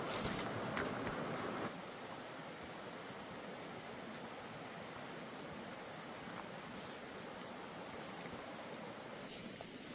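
A steady, high-pitched insect trill that holds one pitch. It starts about two seconds in and stops just before the end. A louder rustling noise with a few light knocks fills the first couple of seconds.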